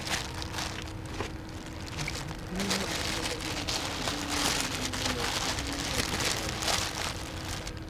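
Rustling and crackling of a car air filter being handled and pressed down by hand close to the microphone, an uneven crackly hiss that is densest in the middle.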